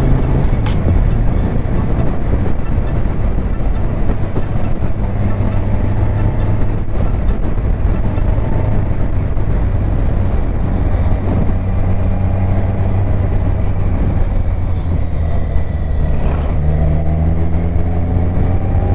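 Kawasaki Ninja 1000's inline-four engine running steadily under way, heard with heavy wind rush on the rider-mounted camera. The engine note shifts up slightly near the end.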